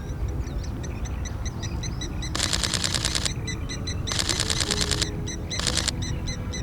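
Mirrorless camera shutter firing in rapid continuous bursts: a burst of about a second, another just under a second, and a short one near the end. A bird gives a steady string of short high notes throughout.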